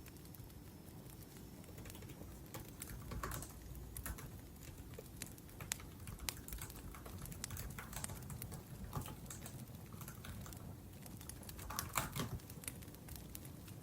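Typing on a laptop keyboard in uneven runs of key clicks, with a wood fire crackling softly underneath.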